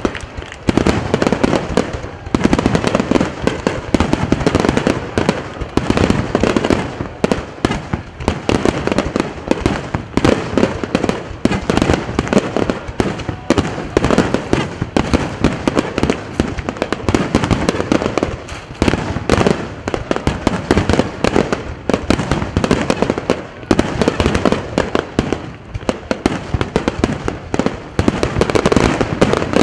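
Aerial firework shells bursting in rapid succession, a dense continuous barrage of booms with only brief lulls, the finale of a fireworks display.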